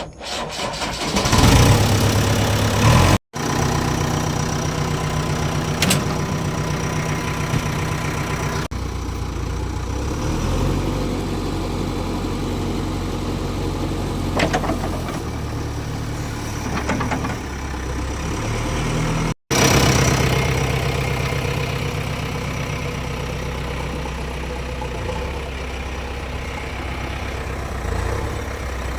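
Diesel engine starting about a second and a half in, then running steadily. The sound drops out for an instant twice, at edit cuts.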